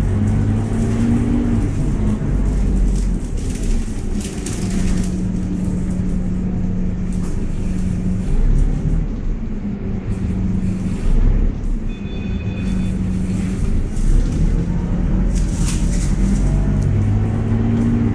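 Scania K230UB city bus engine and ZF automatic gearbox running under way, the engine note shifting in pitch several times as it pulls and changes gear. Two short hissing rushes come at about four seconds in and again near the end.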